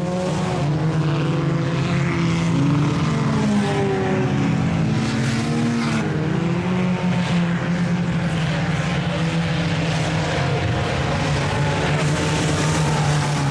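Several sport compact race cars' four-cylinder engines running at speed, a steady loud drone of overlapping engine notes that rise and fall as the cars lift and throttle through the turns.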